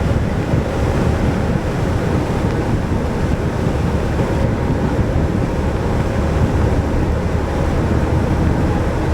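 Steady wind rush buffeting an action camera's microphone on a Yamaha Majesty scooter's windshield mount at cruising speed, with the scooter's engine and road noise running underneath.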